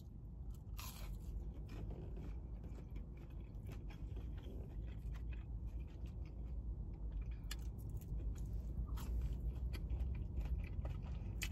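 Close-up chewing of a breaded chicken nugget: soft crunching and small wet mouth clicks, irregular throughout.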